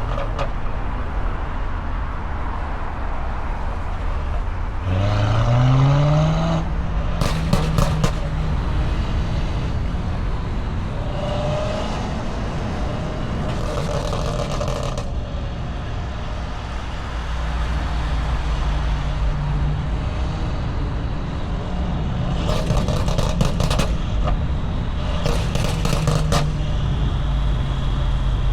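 A car engine running under road noise, revving up once about five seconds in and then holding a steady drone. Several short bursts of knocking or rattling come and go.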